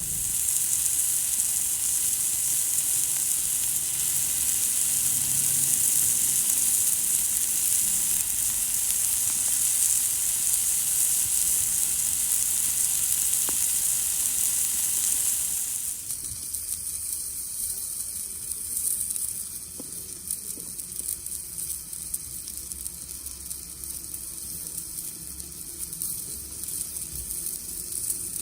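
Food sizzling on a thick iron griddle plate over a campfire, a steady loud frying hiss that turns noticeably quieter about sixteen seconds in.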